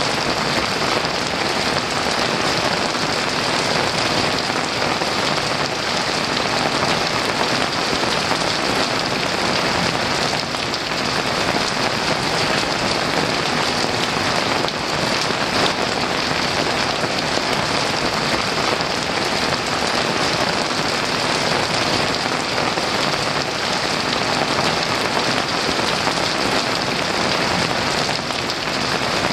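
Heavy rain pouring steadily, a dense, even hiss with no thunderclaps.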